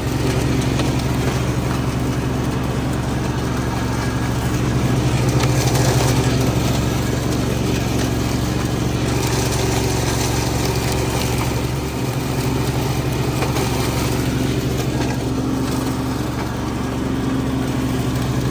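Garden tractor engine running steadily at working speed while it pulls a box blade through wood chips, with a brief dip about two-thirds of the way through.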